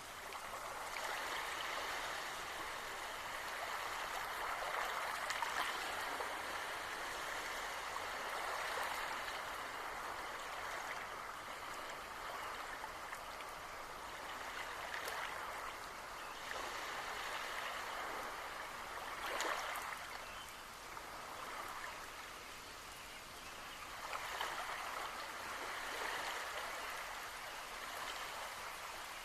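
Rain falling, a steady rushing hiss of water that swells and eases, with a few sharper taps now and then.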